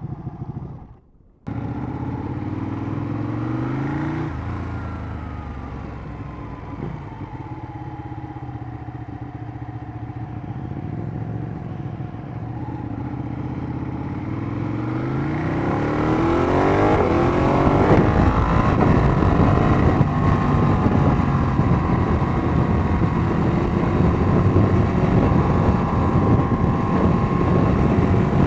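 Ducati 1199 Panigale's V-twin engine under way, pitch rising repeatedly as it accelerates through the gears, with one long climb about halfway through. Wind rush over the microphone builds with the speed and stays loud after that. There is a brief dropout about a second in.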